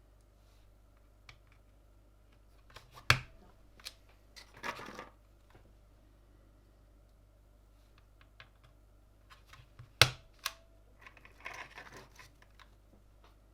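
Two sharp clicks and a few lighter ticks, with short spells of rustling, from keyboard parts being handled and fitted during a mechanical keyboard build.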